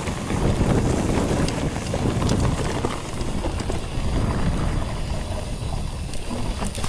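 Mountain bike descending a rough trail: knobbly tyres rumbling over rocks and ruts, the frame and parts rattling, with wind on the microphone.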